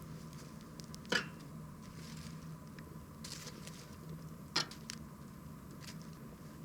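Wood campfire crackling: scattered small ticks and a soft hiss, with two sharp pops, about a second in and again about four and a half seconds in.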